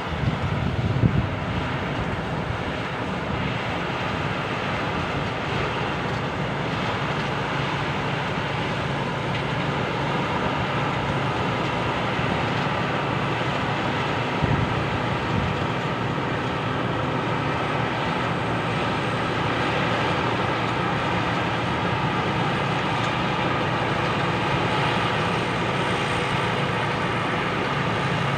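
Rice combine harvester with a Hino diesel engine running steadily under load while harvesting: a constant engine drone over the noise of the working machinery.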